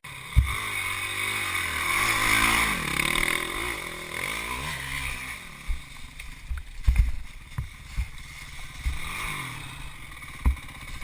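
Dirt bike engine revving up and down in several swells, with wind rush over it. Several sharp thumps cut through, the loudest about seven seconds in.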